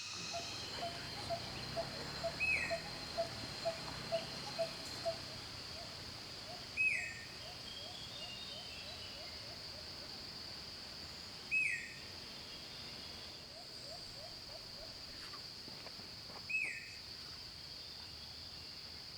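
A bird gives a short, loud down-slurred whistle four times, about every five seconds, against a steady high insect drone. In the first half there are quick runs of low piping notes, about two or three a second.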